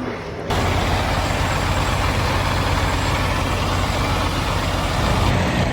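Semi truck's diesel engine running steadily close by, a constant low hum under loud engine noise, starting abruptly about half a second in.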